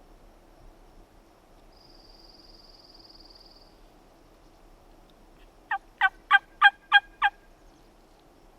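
A series of six loud turkey yelps in quick succession, about three a second, each note dropping in pitch, starting about six seconds in. A faint, steady high-pitched buzz comes earlier, around two to four seconds in.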